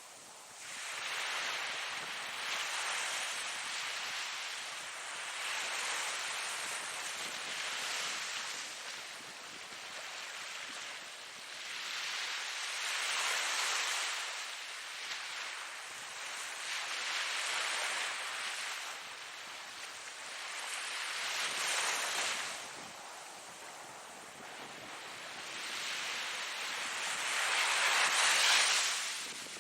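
Ocean surf: a series of waves breaking and washing ashore, each a rush of noise that swells and fades over a few seconds. The last wave, near the end, is the loudest.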